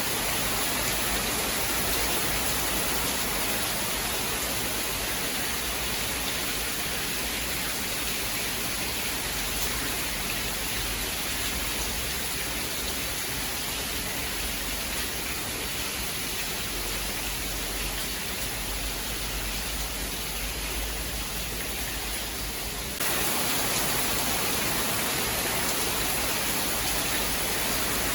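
Steady, dense rain hiss with no distinct thunderclaps. Late on, the sound abruptly steps up a little louder and brighter.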